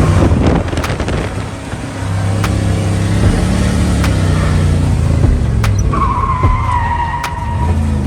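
LS-swapped V8 drift car engine revving, easing off about a second and a half in and then building again. Near the end a high, steady tire squeal joins in for nearly two seconds as the car slides.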